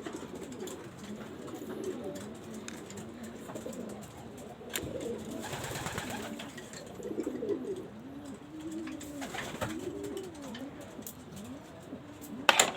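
Several pigeons cooing, low rising-and-falling coos overlapping one after another, with a few sharp clicks and a louder knock just before the end.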